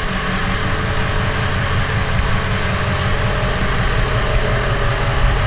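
Diesel pickup truck engine running steadily at idle through its newly finished exhaust with a muffler fitted; the muffler barely changes the sound.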